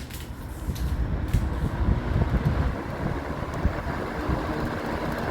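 1980 Lakewood S223 box fan switched on at high speed, coming up to speed over about the first second and then running with a steady rush of air and a low motor hum. The grill rattles because the fan stands on a hard countertop.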